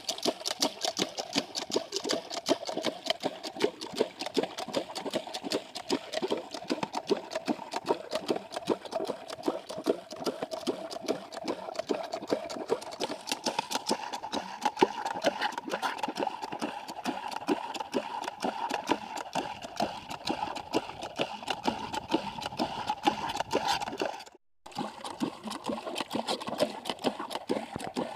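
Small 4 HP single-cylinder diesel engine running a water pump for field irrigation, a steady rapid chugging with no change in speed. The sound cuts out for a split second near the end, then carries on.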